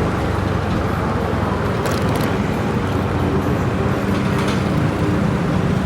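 Motorbike engine and surrounding street traffic, a steady rumble with road noise.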